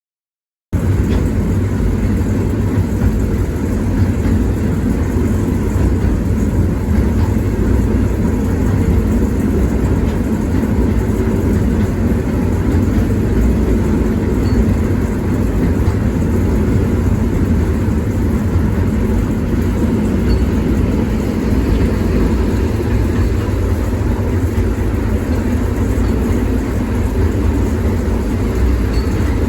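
Lartigue monorail reproduction train's diesel engine, a steady low rumble that starts abruptly under a second in and holds even throughout.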